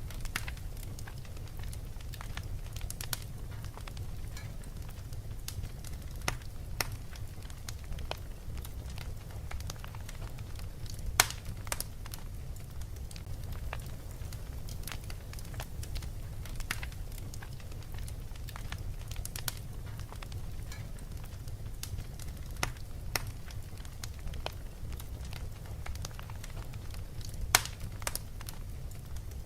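Fireplace crackling, with scattered sharp pops over a steady low rumble; two pops, about a third of the way in and near the end, stand out as the loudest.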